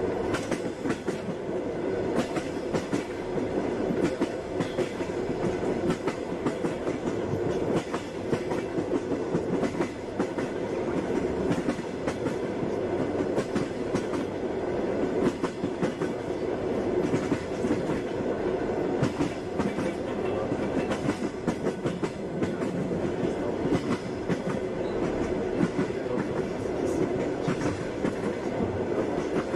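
Passenger train wheels clattering over the rail joints, with a steady running rumble of the carriage underneath.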